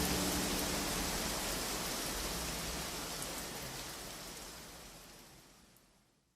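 Steady rain hiss that fades out gradually to silence near the end. A held low music chord dies away in the first moments.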